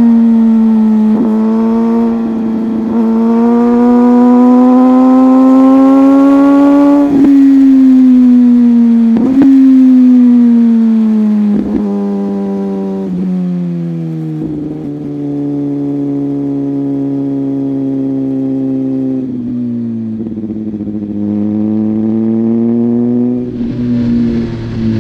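Superbike engine heard onboard while riding. The pitch climbs slowly and then drops sharply at several quick upshifts, then settles into a lower, steadier note.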